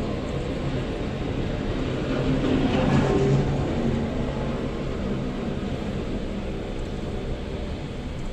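Vehicle engine and road noise while driving, a steady low hum under a wide rushing noise that swells about three seconds in and then eases.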